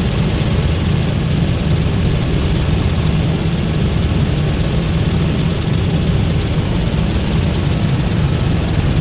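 Helicopter engine and rotor noise heard from inside the cabin during flight: a loud, steady low drone with a rapid flutter and a faint high whine above it.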